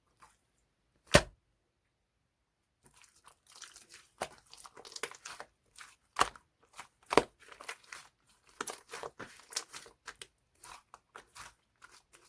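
Slime mixed with lightweight air-dry clay being squeezed and stretched by hand. A single sharp pop comes about a second in. From about three seconds in there is a run of crackling and small pops, with a few louder pops among them.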